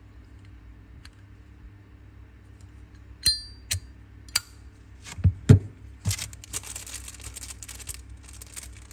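Zippo lighter being handled: a sharp metallic click with a brief ringing ping about three seconds in, typical of the hinged lid flipping open, then several more clicks and clacks of the lid and case. A stretch of scratchy rubbing noise follows near the end.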